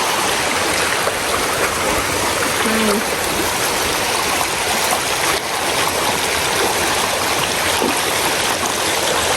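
Waterfall rushing and splashing close by, a steady, loud roar of falling water.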